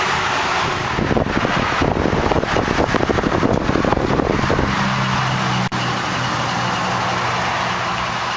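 Wind buffeting the microphone over traffic noise, then a steady low vehicle hum from about the middle on.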